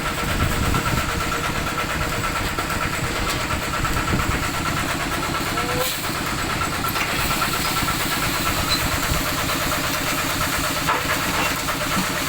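Old Kubota tractor engine running steadily, with a fast, even firing beat.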